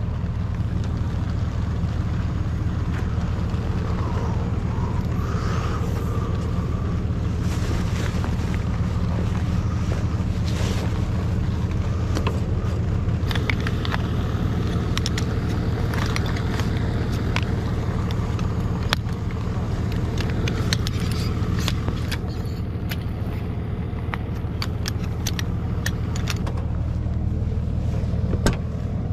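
A 4WD vehicle driving, its engine and tyres making a steady low drone, with scattered rattles and clicks over it.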